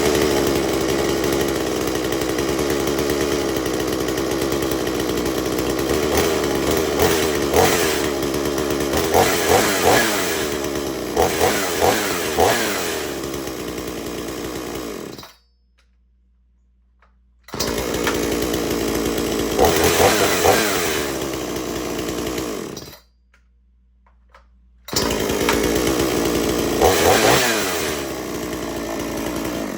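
XtremepowerUS 6200XP 62cc two-stroke chainsaw running, with repeated short revs of the throttle. It stops twice and starts running again each time.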